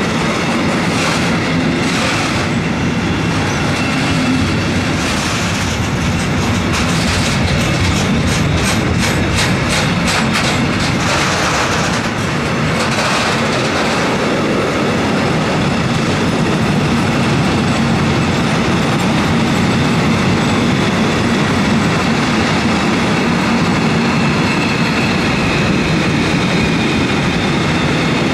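Loaded freight wagons (covered sliding-wall wagons and tank wagons) rolling past close by: a steady heavy rumble of steel wheels on rail, with a run of rapid clickety-clack from the wheelsets over rail joints between about five and thirteen seconds in. A thin high wheel squeal comes in near the end.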